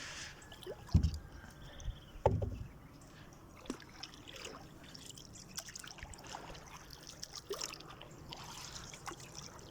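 Water lapping and trickling around a small boat being moved quietly through the water, with two dull knocks against the boat about one and two seconds in.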